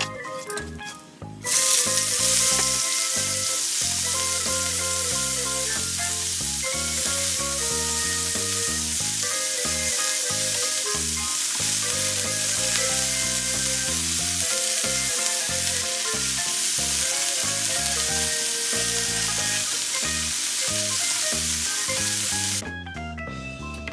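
Broccoli florets sizzling loudly in hot garlic oil in a frying pan as they are stir-fried. The sizzle starts suddenly about a second and a half in and stops just before the end.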